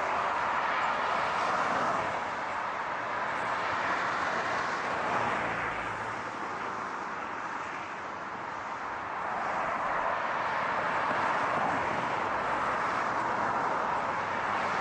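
Continuous car noise, a steady rushing hiss that eases a little in the middle and then builds again.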